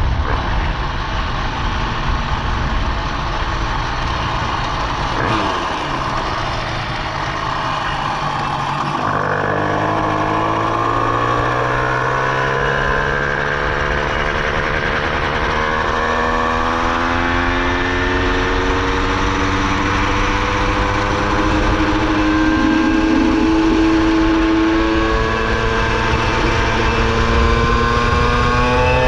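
Minarelli vertical-cylinder two-stroke engine on a motorized bicycle, running continuously with its pitch drifting slowly down and up as the throttle and speed change, and a few quick rises and falls near the end.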